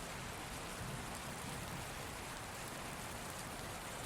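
Steady rain ambience used as a sleep sound bed: an even hiss of falling rain with no thunder and no change in level.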